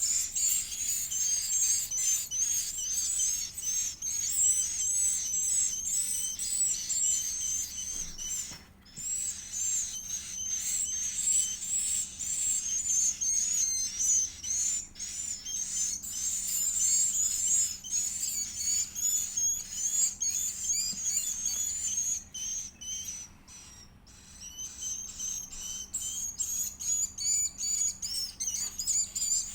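Edible-nest swiftlet chick giving begging calls while being fed: rapid, high-pitched chirps repeated almost without a break, dropping out briefly twice.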